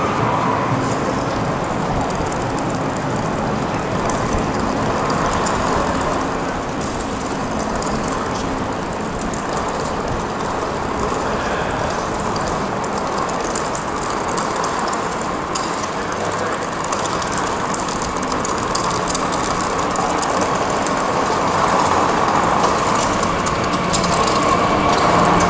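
Red DB Regio electric multiple unit arriving on the platform track, its running noise and wheels on the rails growing louder near the end as it draws alongside.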